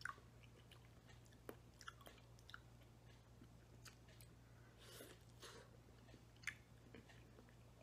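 Faint close-up chewing of soft baked peach, with small wet mouth smacks and clicks at irregular intervals over a low steady hum.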